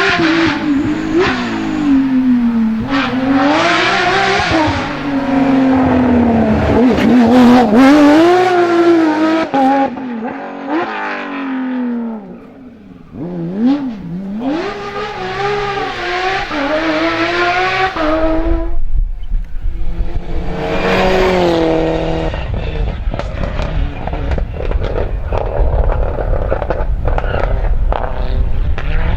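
Rally cars driving flat out on a stage, one after another. Their engines rev up and drop again and again as they change gear and brake for corners.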